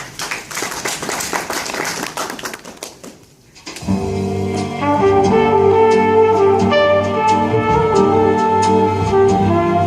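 Music played from tape through 1930s Western Electric papier-mâché cinema horn loudspeakers: after a few seconds of dense crackling clatter, a brass-led band comes in about four seconds in with sustained chords.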